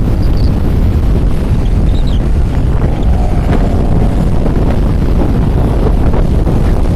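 Strong wind buffeting the microphone by a rough sea with big waves, a loud, steady rumble.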